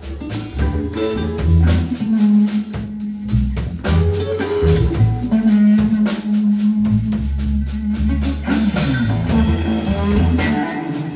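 A blues trio playing live: drum kit keeping time under plucked guitar and held low bass notes.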